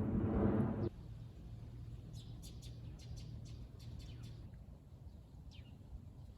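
A loud rushing noise cuts off abruptly about a second in. It gives way to birds chirping: a quick run of short, falling chirps, then a few single chirps near the end, over a faint low hum.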